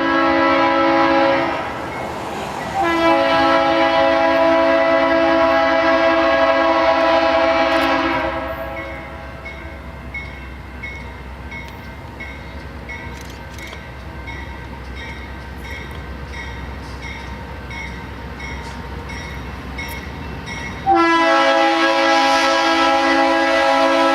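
Locomotive air horn sounding a chord of several tones: a short blast, then a long one. After that the horn drops much fainter for about twelve seconds while the train rumbles past with a steady run of wheel clicks. Near the end the horn comes back in a loud long blast.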